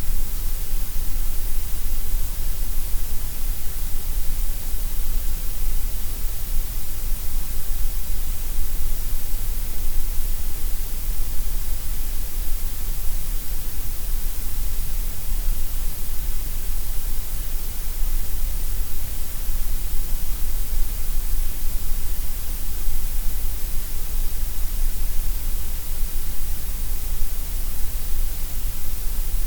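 Gray noise: a steady, unchanging hiss, strongest in the deep low end and the high end.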